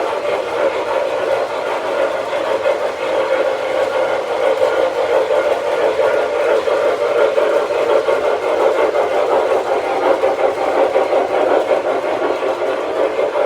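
O-scale model steam locomotives running on the layout track: a steady rolling rumble of wheels and motors on the rails.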